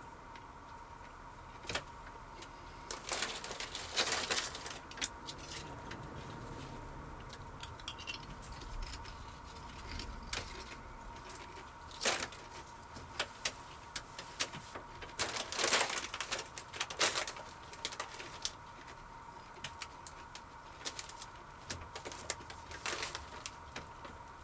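Irregular crunching and crackling of potato crisps being eaten, in scattered clusters, over a faint steady high tone.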